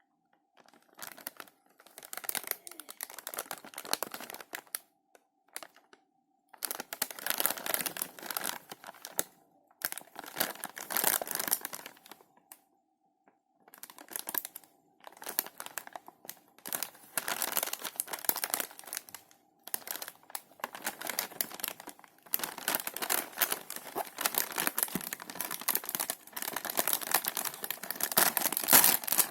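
Plastic snack packet crinkling as it is handled, in irregular bursts with a few short pauses, denser towards the end.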